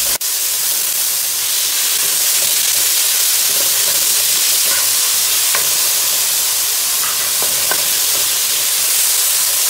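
Sliced beef and bitter melon sizzling steadily in a nonstick frying pan while being stirred with a wooden spatula, with a few faint ticks of the spatula against the pan.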